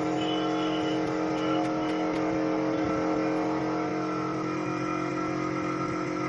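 A motor running steadily at a constant pitch.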